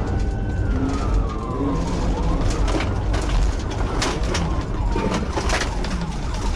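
Police siren wailing, slowly rising and falling in pitch about every three to four seconds, over a heavy steady rumble of road and wind noise from the pursuing patrol car.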